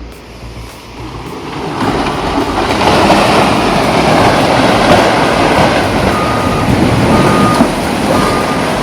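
Heavy machinery running, with a loud rushing rumble that swells up about two seconds in. From about six seconds in, a backup alarm beeps about once a second.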